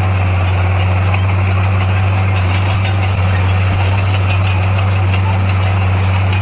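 Heavy diesel engine of earthmoving machinery running steadily, a constant low drone with no change in revs.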